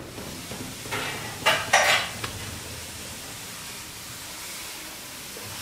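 A utensil stirring and scraping in a cooking pan, with a few loud scrapes about one and a half to two seconds in, over a steady sizzle of food frying.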